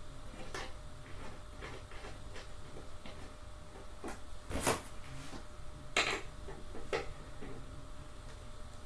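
Light clicks and knocks of a hex key and metal chair parts being handled and screwed together during assembly, with two sharper knocks about halfway through.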